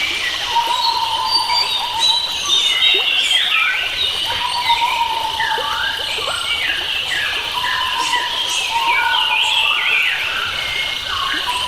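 A chorus of wild forest birds chirping and whistling in many short rising and falling notes, over a steady high-pitched buzz. A lower held whistle comes back every two to three seconds.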